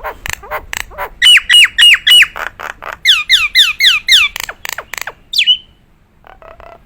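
Jalak nias, a myna, singing a loud, varied song. It opens with a run of sharp clicking notes, then gives four strong whistles that hook downward, a quick series of about eight falling whistles, and one more whistle, ending in softer short notes.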